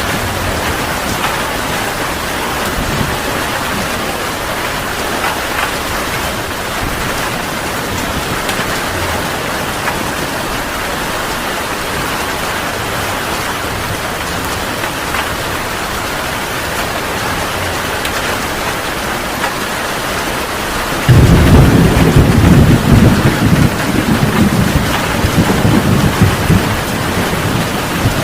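Heavy rain pouring steadily in a thunderstorm. About three-quarters of the way through, a loud clap of thunder breaks in and rolls on as a low rumble over the rain.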